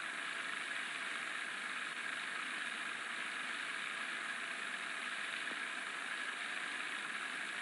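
Steady, even hiss with no distinct events, strongest in the upper-middle range.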